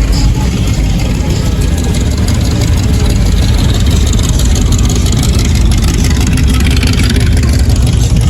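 A car engine running at close range with a steady, deep rumble.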